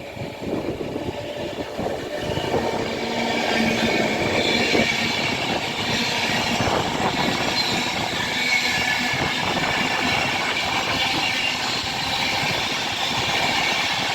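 Avanti West Coast Class 390 Pendolino electric train passing through, with steady wheel-and-rail noise and a run of clicks. The noise builds over the first few seconds, then holds.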